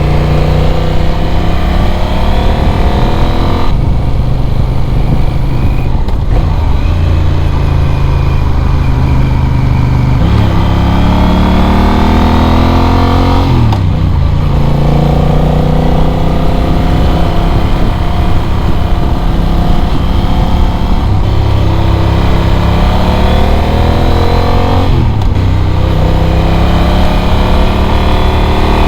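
Motorcycle engine heard from onboard while riding a winding mountain road, repeatedly accelerating: its pitch climbs steadily and then drops back about five times as the rider eases off and gets back on the throttle.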